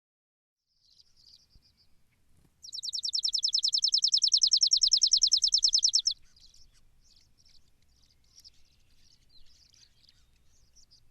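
Sparrow song: a few faint chirps, then a loud, fast trill of rapidly repeated high notes lasting about three and a half seconds, followed by scattered faint chirps.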